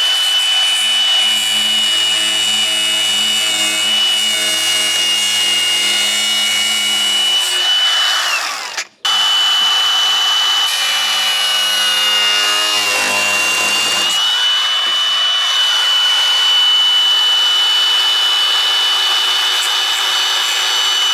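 Handheld electric power tool running with a steady high-pitched motor whine. It runs for about eight seconds, winds down and stops, then starts again a moment later and runs on, its pitch sagging slightly partway through as it takes load.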